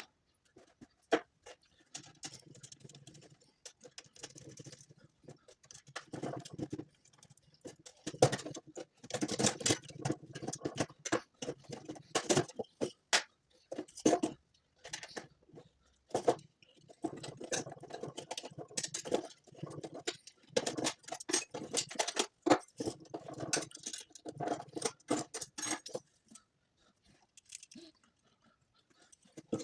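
Hard parts being handled: irregular clicks, taps and rattles, denser in stretches and quieter near the end.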